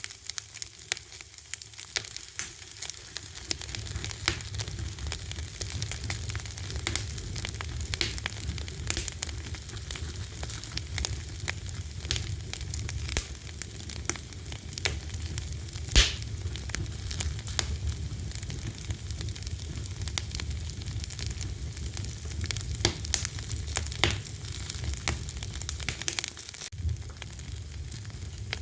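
Wood fire crackling, with frequent sharp pops over a steady hiss and one louder pop about halfway. A low rumble of the burning comes in a few seconds in.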